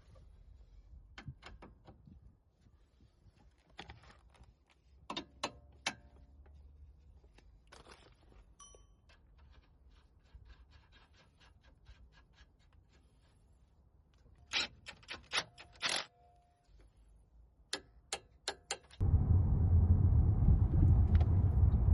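Scattered light clicks and clinks. About nineteen seconds in, a loud steady low rumble of the Hyundai Grandeur HG running starts suddenly, heard from inside the cabin.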